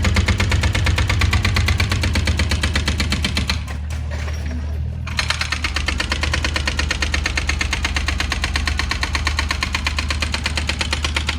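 Excavator-mounted hydraulic breaker hammering rapidly over the steady hum of the diesel engine. The hammering pauses for about a second and a half around four seconds in, then starts again.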